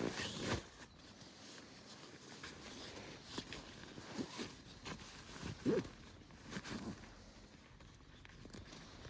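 Scattered light knocks and rustles of gear being handled, with a louder knock a little before six seconds in.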